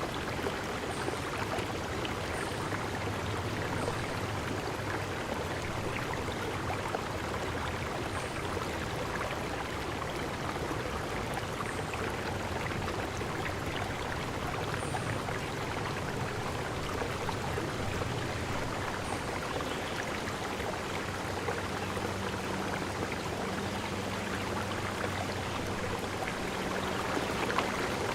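Steady rushing of a flowing stream, with faint short high chirps now and then.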